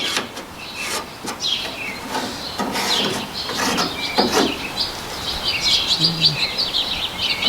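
Small birds chirping, growing busier about halfway through, over scattered light taps and clicks.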